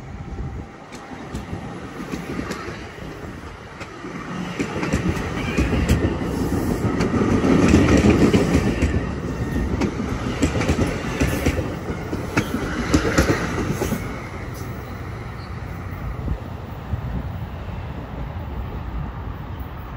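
NJ Transit commuter train rolling past, its wheels clicking over the rail joints. The rumble builds to its loudest about eight seconds in, then eases off.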